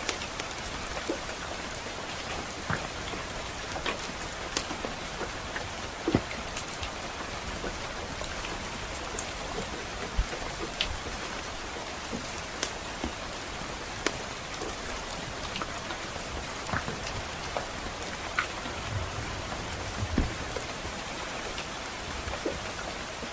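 Steady rain, with irregular sharp crackles and pops from a wood fire burning in a fireplace.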